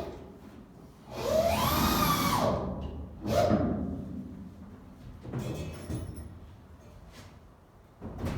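A handheld power tool run in two short bursts: the first, about a second in, rises in pitch and falls away; the second, shorter, follows a second later. Fainter knocks come near the end.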